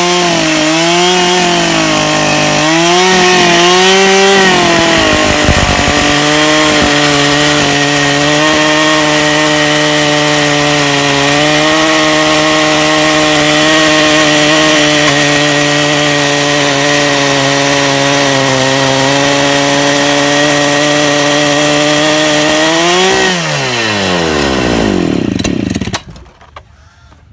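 Chainsaw on a portable chainsaw mill running at full throttle while ripping a log lengthwise, its chain filed flat for cutting along the grain. The engine pitch wavers at first, then holds steady under load. Near the end the revs rise briefly, then fall away, and it goes quiet.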